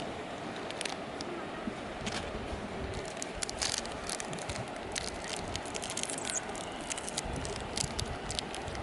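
Wood campfire crackling, with irregular sharp pops and snaps, over the steady rush of a river.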